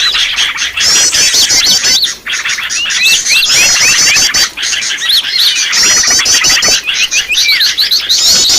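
Loud, dense chorus of many small songbirds chirping at once: fast repeated trills over short rising and falling whistled notes, all overlapping. This is a looped bird-lure recording of noisy small birds, played to draw wild birds in.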